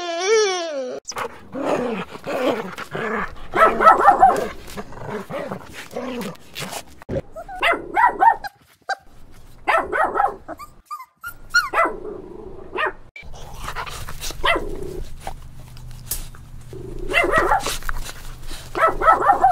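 Several different dogs, puppies among them, barking and whining in short runs one after another, with a wavering, gliding whine at the very start.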